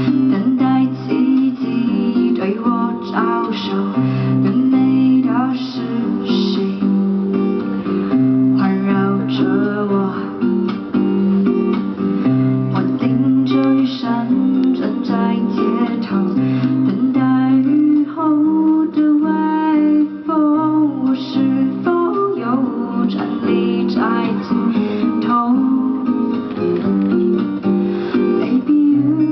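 Instrumental music: acoustic guitar playing picked and strummed chords over a repeating low bass pattern, with no singing.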